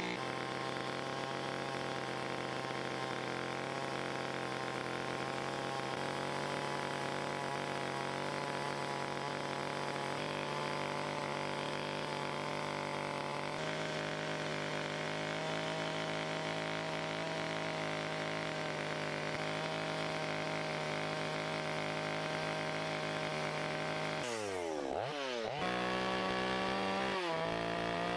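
Chainsaw running at high revs while carving wood, holding a steady pitch with small shifts as it cuts. Near the end the revs drop sharply and climb straight back up.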